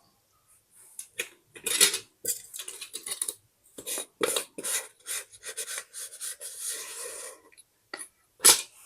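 Paper being handled in scrapbooking: an irregular series of rubbing and scraping strokes, with a sharper, louder stroke near the end.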